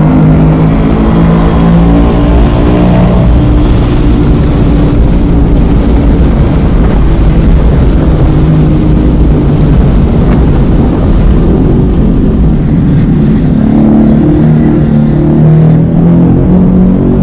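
Sound inside the cabin of a car being driven hard on a race track: the engine running at high speed down a straight at about 100 mph, with wind and tyre noise. Near the end the car slows for a corner.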